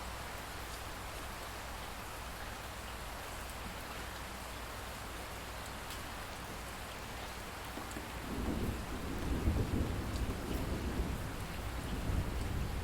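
Steady rain falling, a continuous hiss with scattered drop ticks. About two-thirds of the way in, a low rolling rumble of thunder swells up and runs on to the end.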